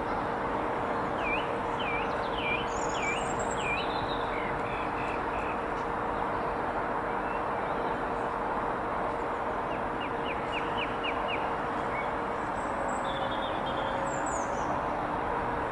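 Small birds chirping and singing over a steady rushing background noise with a faint low hum: five quick rising chirps early on, then a rapid run of short notes about ten seconds in.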